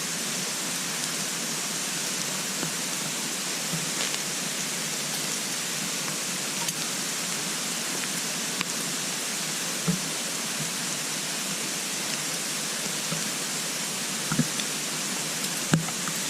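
Small wood fire burning in a compact twig stove: a steady rushing hiss with a few sharp crackles and pops, the loudest near the end.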